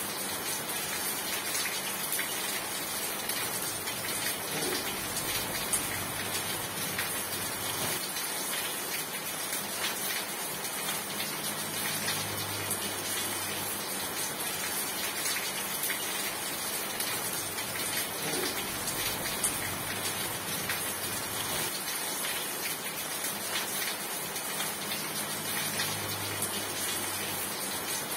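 Steady heavy rain: an even rushing hiss dense with small drop ticks, with a faint low hum that swells and fades every several seconds.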